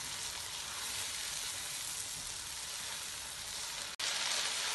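Chopped tomatoes with onions and ginger-garlic paste sizzling steadily in hot oil in a frying pan. The sizzle breaks off for an instant about four seconds in and resumes a little louder.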